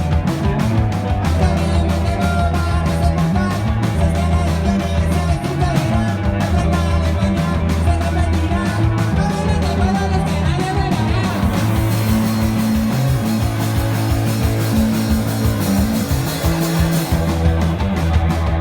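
Rock band playing with electric guitar, bass guitar and drums keeping a steady beat; cymbals ring out through the later middle stretch.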